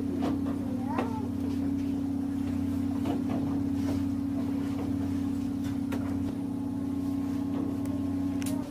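Steady low mechanical drone of a vehicle's machinery, holding a constant pitch, with light clicks over it; it steps down slightly about six seconds in.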